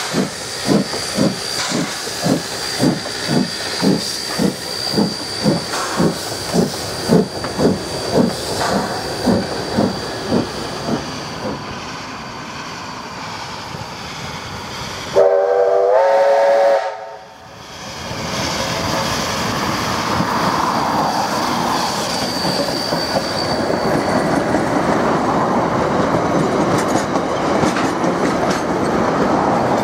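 A 428, a 1909 New Zealand Railways A class 4-6-2 steam locomotive, working a train: its exhaust beats steadily about twice a second, then fades away. About halfway through there is a roughly two-second blast on its chime steam whistle, several notes at once. After that the carriages roll past with a steady rumble and clickety-clack of wheels on rail joints.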